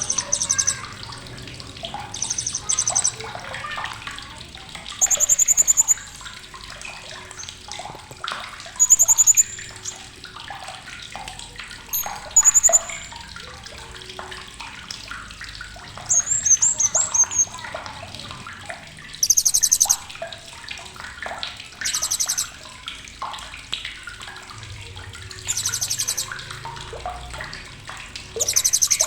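Blue-crowned hanging parrot (serindit) giving short, shrill, very high-pitched trilled chirps, about ten of them, spaced two to four seconds apart. A faint, steady watery hiss and quieter chirps run underneath.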